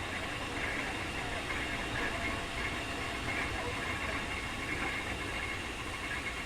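Keikyu 2000 series electric train running, heard from inside the passenger car: a steady rolling noise with a faint high tone.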